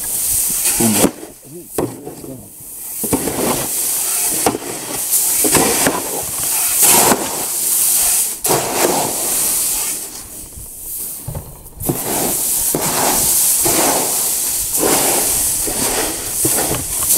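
Seed mix of oats, sainfoin and brome being stirred and scooped in a galvanized metal tub: a rushing, rattling hiss of dry grains sliding and pouring against the metal, coming in waves with short pauses.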